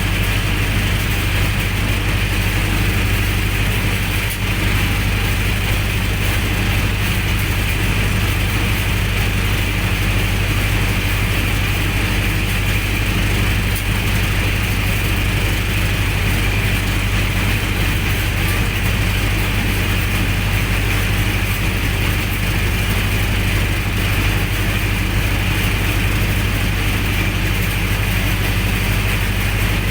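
Generator set engine running steadily with a constant low hum and mechanical clatter.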